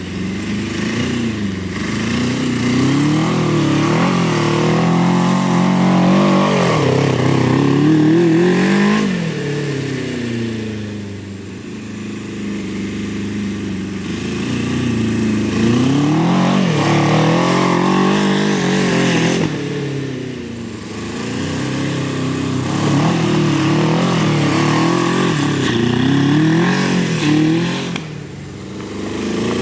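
Go-kart's Suzuki GS750 air-cooled inline-four motorcycle engine running hard, its revs rising and falling over and over as it is driven, easing off about eleven seconds in, again around twenty seconds and briefly near the end.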